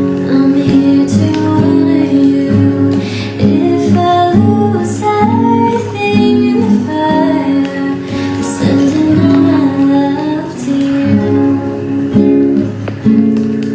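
Acoustic guitar playing chords, strummed and plucked, with a soft female vocal melody over it in the middle of the passage.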